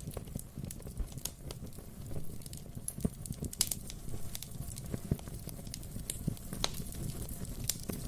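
Wood fire burning in a fireplace, crackling: irregular sharp pops and snaps over a steady low rumble of the flames.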